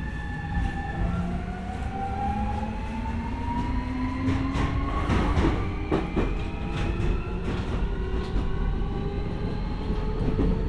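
Keio 1000 series (third batch) electric train heard from inside the car. Its inverter and traction motors whine in several tones that rise steadily in pitch as the train accelerates, over a low running rumble. The wheels click over rail joints around the middle.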